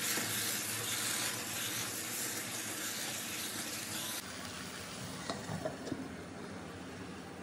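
Beef roast with onion masala sizzling in a nonstick pan while it is stirred with a wooden spatula. Near the end come a few light clicks as a glass lid is set on the pan.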